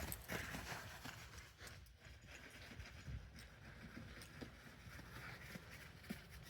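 Faint, irregular crunching of a dog's paws running through snow, a little louder at the start.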